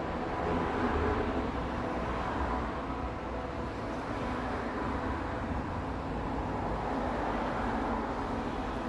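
A steady, noisy outdoor rumble with no clear pitch that slowly swells and eases every couple of seconds: the unexplained sky noise as it was recorded.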